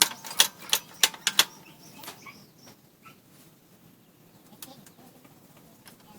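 A quick series of about six sharp knocks in the first second and a half, then faint short bird chirps.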